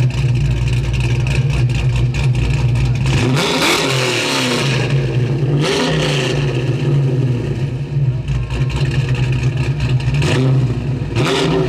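Big-block Chevy V8 of a 1971 Camaro Z28 idling with a steady rumble, revved three times: about four seconds in, again about two seconds later, and once more near the end.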